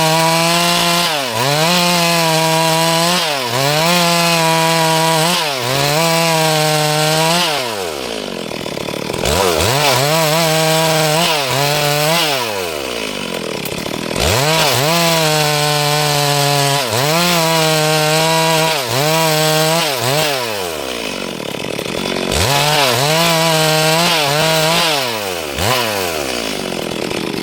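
Stihl MS382 two-stroke chainsaw running at high revs while cutting a dry log. The engine pitch dips and recovers about once a second as the chain bites, and drops lower and longer a few times, around 8, 13 and 21 seconds in.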